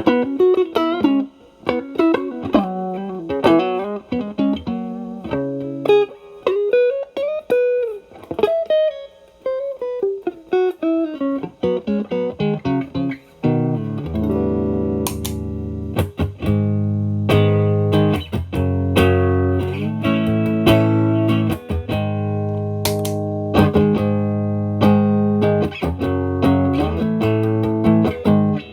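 Electric guitar, a Stratocaster played through an Xotic BB Plus overdrive preamp into a Marshall Valvestate amp, with a driven tone. It starts with single-note lead lines and string bends, then about halfway through switches to ringing chords struck in a rhythm.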